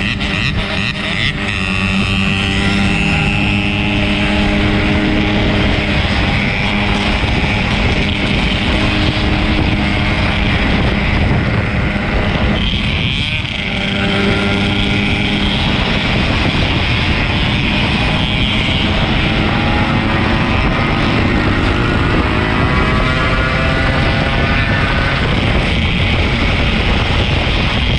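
Yamaha RX-King's 135 cc two-stroke single-cylinder engine running under way, with wind on the microphone. Its pitch climbs steadily in stretches, drops briefly about halfway through, then climbs again.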